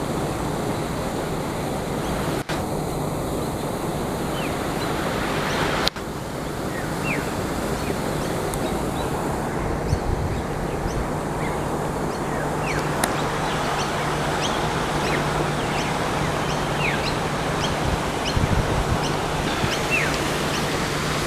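Small birds giving short, high chirps, scattered and more frequent after the first few seconds, over a steady rushing noise.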